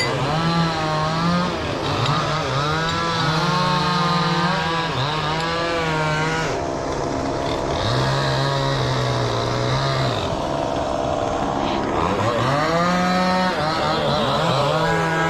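Chainsaw running hard, its engine note dropping and rising several times as it cuts through storm-broken trees, with a lower, steadier stretch about halfway through.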